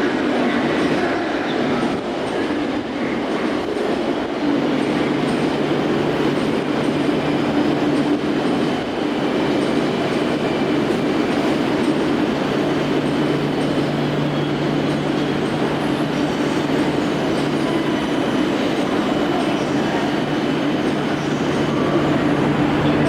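E2-series Shinkansen train rolling slowly into the station: a steady electric hum with low rumble and faint wheel noise.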